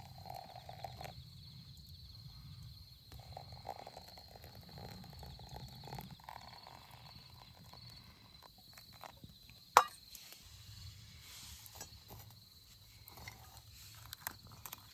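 Scattered rustling and knocking handling sounds, with one sharp crack about ten seconds in, over a steady high-pitched insect chirring.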